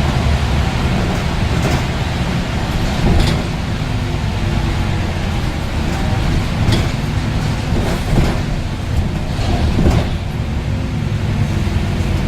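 Scania N230UD double-decker bus's five-cylinder diesel engine running steadily, with several sharp knocks or rattles about every second or two.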